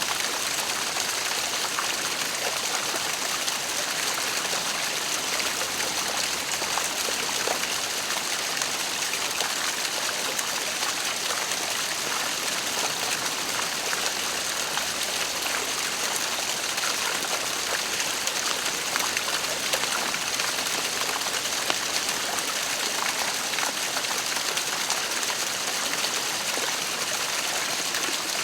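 Waterfall: falling water splashing and rushing with a steady, even hiss.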